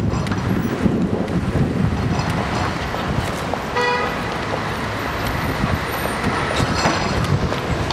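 Steady road traffic rumble, with a single short car horn toot about four seconds in.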